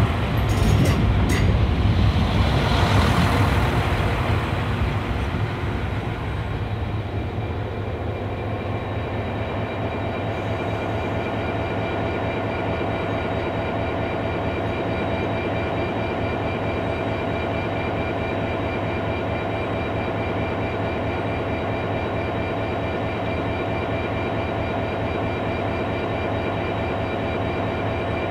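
Irish Rail 071 class EMD diesel locomotive with a train of empty timber wagons. A few sharp clicks and a louder rush of train noise fade over the first few seconds into the steady drone of the locomotive's diesel engine, which holds an unchanging pitch.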